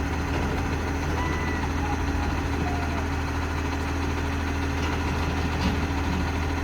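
Garbage truck's diesel engine idling with a steady low hum.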